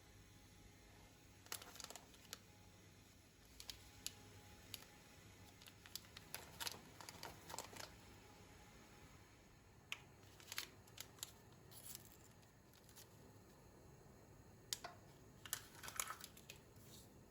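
Quiet scattered clicks and light taps with brief crinkling rustles: small objects and packaging being handled.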